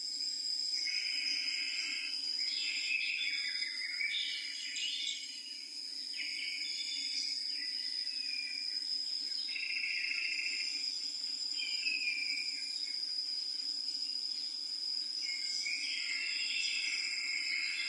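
Insects, crickets or similar, trilling steadily at one high pitch, with shorter calls breaking in every second or two.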